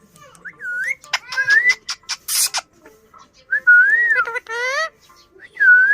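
Pet parrot whistling: about four short wavy whistles, each dipping and rising in pitch, with a brief harsher rising call and a few clicks between them.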